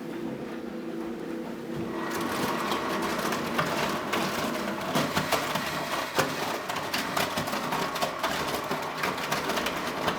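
Philco Bendix W84RX washing machine running its hot coloured-wash programme: a steady machine hum, then from about two seconds in a louder rushing noise with many small clicks and knocks.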